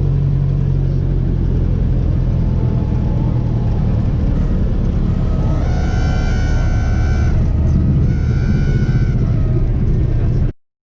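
Light airplane's engine and propeller droning steadily, heard from inside the cabin. Twice near the middle a high, steady tone sounds, the first for about a second and a half and the second for about one second. All sound cuts off abruptly near the end.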